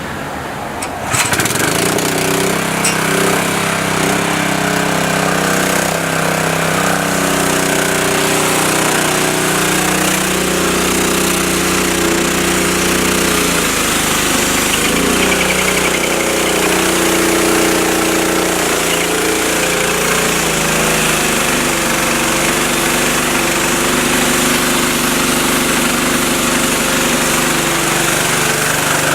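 A gas pressure washer's small Honda engine starts about a second in and then runs steadily. Its pitch dips and wobbles briefly around halfway, then settles again.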